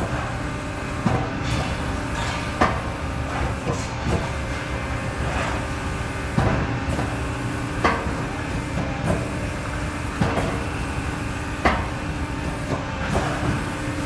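Accurpress 250-ton CNC hydraulic press brake running: its hydraulic pump hums steadily with a held low tone, and sharp mechanical clunks come about every one to one and a half seconds as the machine cycles and its back gauge moves.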